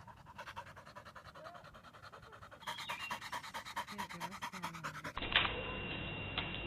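A dog panting rapidly and evenly for about five seconds. Then the sound changes abruptly to a different recording with a steady high-pitched tone and a couple of sharp clicks.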